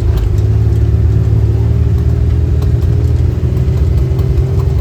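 A vehicle engine running steadily at a constant speed, with a low, even hum.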